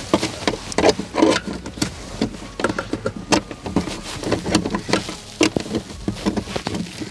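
Irregular clicks, knocks and rustling, several a second, from something being handled and worked on.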